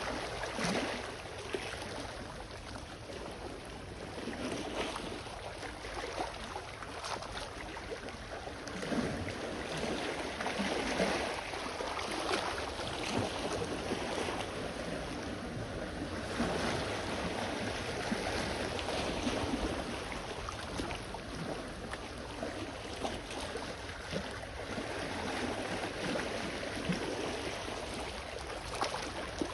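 Small sea waves lapping and splashing at the shore in an irregular, steady wash, swelling and easing every few seconds.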